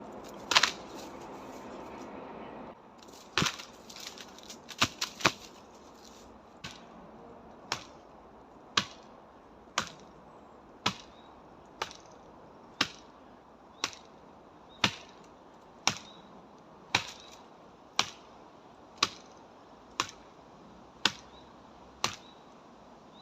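Hard blows landing on a dry, dead tree trunk: sharp knocks, a few irregular ones at first, then a steady series of about one strike a second.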